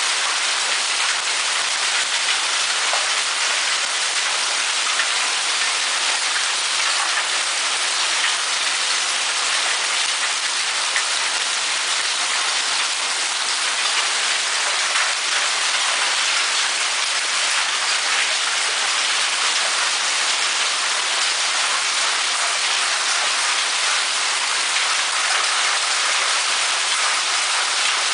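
Hail and rain pelting down on surfaces in a hailstorm: a dense, steady clatter with scattered sharper hits.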